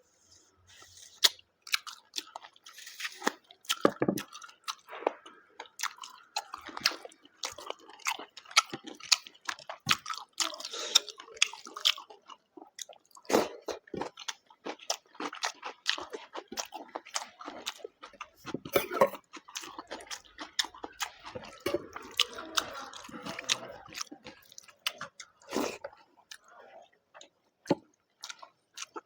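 Close-up eating sounds: a person chewing and biting with wet mouth smacks and crunches, a run of sharp irregular clicks, as they eat rice with mutton-and-potato curry and salad.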